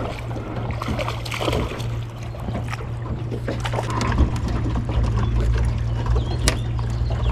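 Outboard motor of a jet jon boat running steadily, a constant low hum over water noise.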